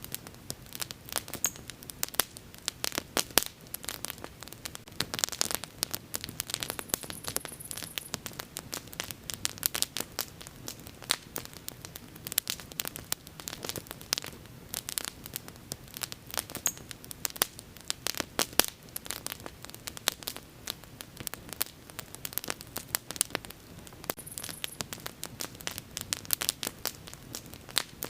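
Outdoor wood bonfire crackling, with frequent irregular sharp pops and snaps over a steady low hiss.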